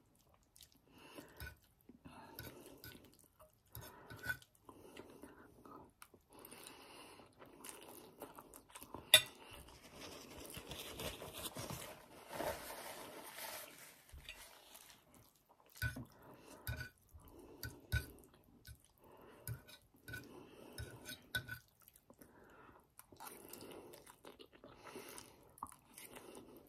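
Close-miked chewing of palabok rice noodles, with soft fork scrapes and clinks on a ceramic plate. About a third of the way in a sharp clink as the fork is set down, followed by a few seconds of rustling as a paper napkin is held to the nose.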